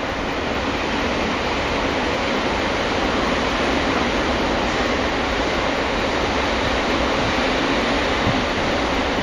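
Freight train running by: a steady, dense rumble of wheels on rails, growing a little louder over the first few seconds.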